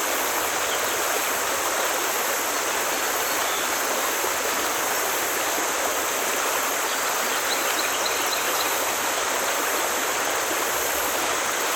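Forest stream flowing over rocks, a steady rushing of water. A few faint high chirps come in briefly past the middle.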